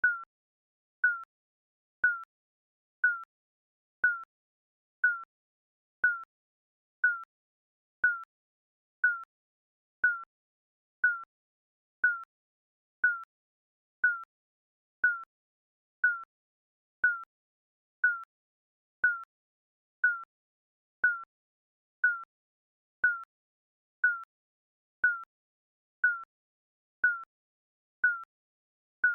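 Electronic countdown-timer beep, a short high tone that dips slightly in pitch, repeating once every second.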